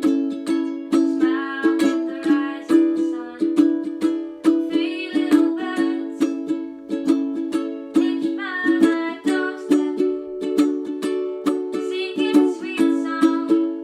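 Ukulele strummed steadily in a calypso strumming pattern, moving between the A, D and E7 chords, with a chord change about two thirds of the way through.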